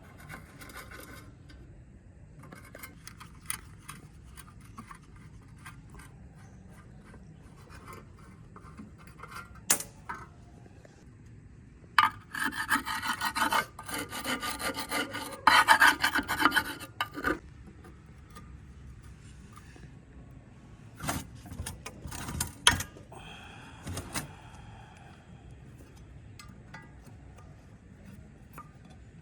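A hand tool rasping against metal in rapid back-and-forth strokes, loudest in a run of about five seconds near the middle, with quieter scraping around it. A few sharp metallic knocks and clinks come before and after.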